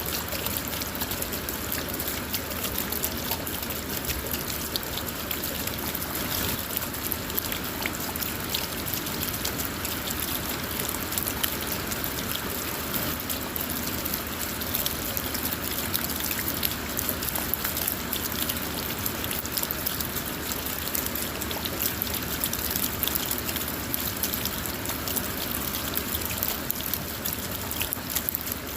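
Steady rain falling on a car's roof and windows, heard from inside the car: a constant hiss dotted with many small drop ticks.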